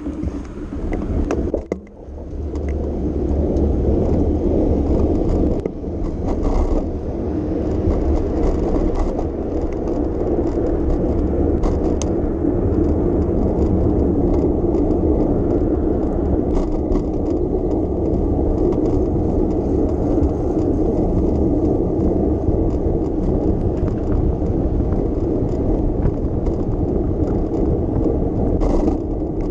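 Bicycle being ridden on city streets: a steady rolling rush with a deep rumble and occasional light clicks and rattles. It builds up over the first few seconds, then holds steady.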